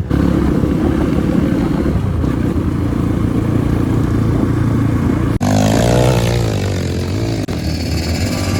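Trail motorcycle engine running under load, its pitch rising and falling as it revs, with some clatter. The sound breaks off sharply about five seconds in and carries on straight after.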